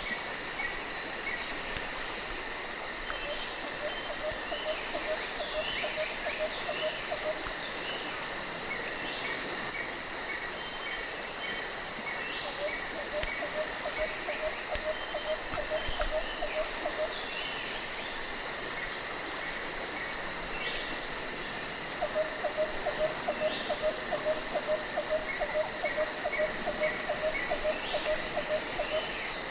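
Tropical jungle insect chorus: a steady, high-pitched pulsing buzz with shrill chirps. Three times, about three seconds in, around twelve seconds in and again from about twenty-two seconds to the end, a lower rapid chattering call joins in.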